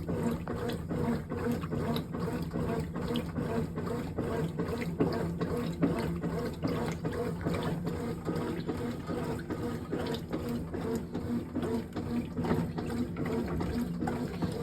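Brastemp 18 kg top-loading washing machine running its wash stage: water running and sloshing in the tub over a steady machine hum.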